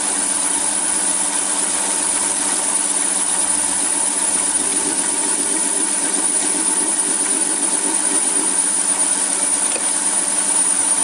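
Small metal-turning lathe running steadily under power feed while its tool takes a thick cut in metal, with a constant hum and a thin high whine. The machine is carrying the heavy cut without strain.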